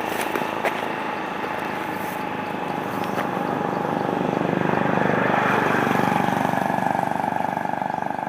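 A small engine running steadily, growing louder about halfway through and then holding.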